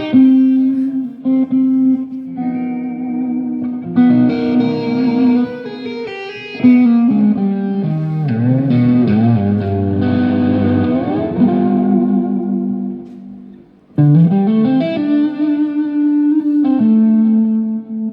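Electric guitar through effects playing a melodic lead line of held notes with bends and pitch glides. It fades away about 13 seconds in, then comes back with a note sliding up.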